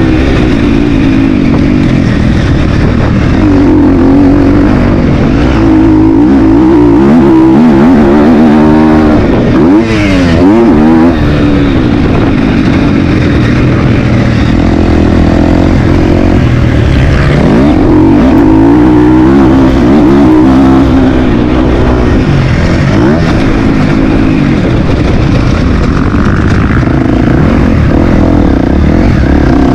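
Motocross bike engine running hard and loud, its pitch repeatedly climbing and dropping as the throttle is opened and closed and the gears change.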